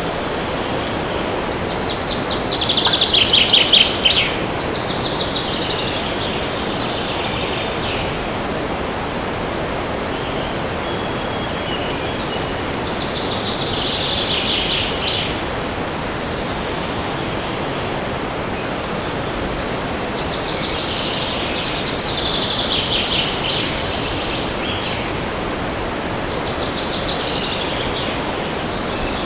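Steady rushing of wind in a forest, with songbirds singing short trilled phrases every several seconds; the loudest phrase comes about three seconds in.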